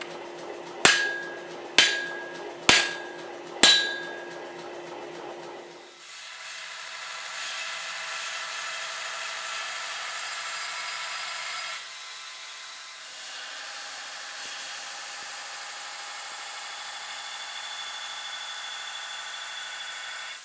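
Four hammer blows on steel, about a second apart, each leaving a ringing tone. Then a power tool runs steadily with a grinding whine, dipping briefly about twelve seconds in, as the cleaver blank is ground.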